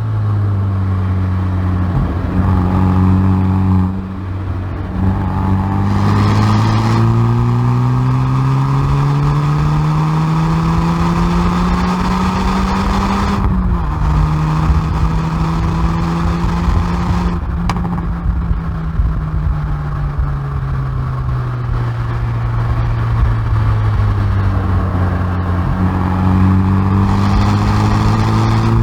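Hyundai i30N Performance's turbocharged 2.0-litre four-cylinder, heard from the exhaust end at the rear bumper while driven hard on track. Its pitch falls briefly, then climbs through a long pull. It drops sharply at an upshift about halfway through, falls away for several seconds as the car slows, and climbs again near the end.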